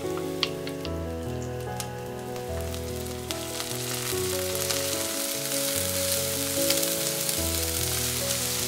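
Diced onions sizzling in hot oil in a non-stick wok, the sizzle growing louder about three seconds in as they are stirred, with a few sharp clicks near the start. Background music with sustained notes plays underneath.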